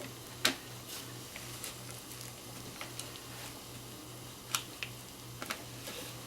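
A few short clicks and taps of a utensil against a bowl as whipped soap is spooned into a piping bag, over a steady low pulsing hum.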